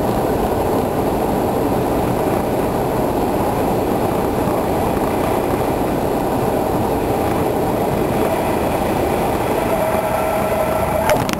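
Cessna 172's piston engine and propeller with airflow, a steady loud drone heard from inside the cabin. Near the end there is a sharp click and a brief steady tone.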